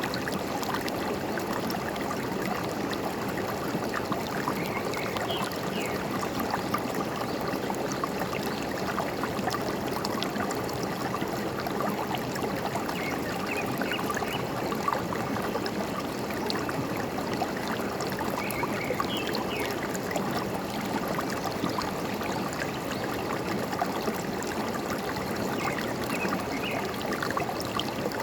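Forest stream running steadily, trickling and gurgling, with a few faint short bird chirps now and then.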